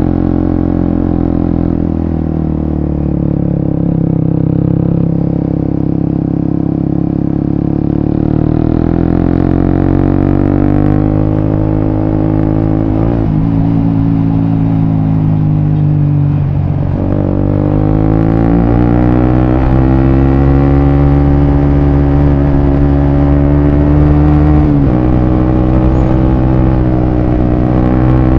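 Suzuki GSX-S150's single-cylinder four-stroke engine running through a Quinze Big Volume aftermarket exhaust, its note rising and falling with the throttle. Around the middle the pitch drops sharply twice, then climbs steadily again, with another small step down near the end.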